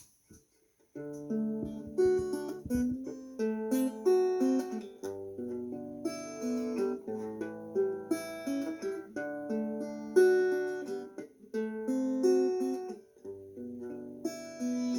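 Acoustic guitar playing a picked chord intro in a steady pattern of single notes over low bass notes, starting about a second in.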